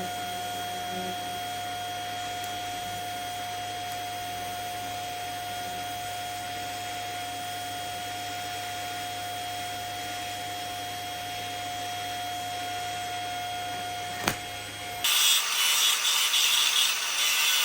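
TIG welding arc buzzing steadily during the root pass, then cutting out about 14 seconds in with a click. A second later a louder, rough, uneven scraping on metal starts.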